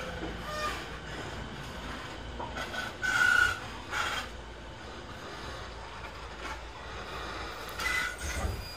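Inside a JR East E217-series electric train: a steady low rumble with a few short high squeals, the loudest about three seconds in and others about a second later and near the end.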